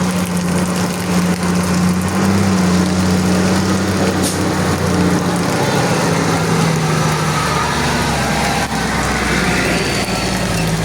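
Heavy rain making a steady hiss, over a steady low motor-like hum.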